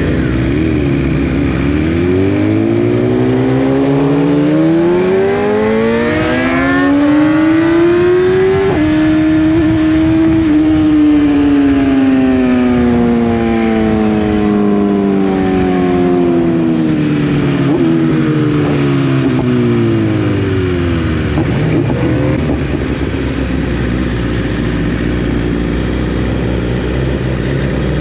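Motorcycle engine revving up, its note climbing for about nine seconds with small steps along the way, then easing off and falling slowly for about ten seconds before settling to a steady lower run near the end.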